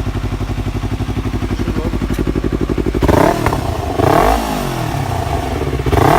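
Yamaha R25 parallel-twin motorcycle engine idling through a switchable valved exhaust, then revved in three quick throttle blips, about three, four and six seconds in, each falling back towards idle.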